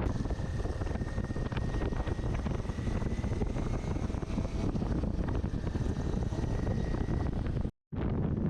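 Steady low rumble of wind buffeting the microphone, mixed with the running noise of a moving vehicle. It cuts out for a moment near the end.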